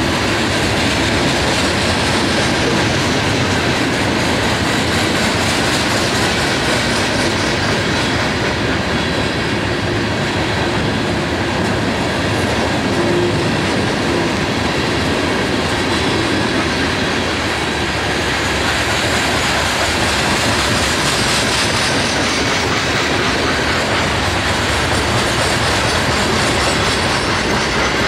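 Freight train of coal cars rolling past. The steel wheels make a steady, loud noise on the rails throughout.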